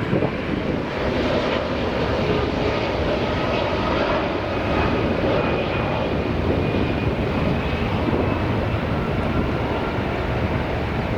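Airbus A300F freighter's turbofan engines on landing approach: a steady jet rumble with faint high whines.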